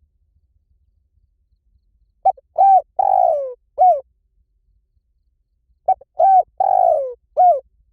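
Spotted dove cooing: two identical four-note phrases, the first about two seconds in and the second near the end, the third note of each longer and falling in pitch.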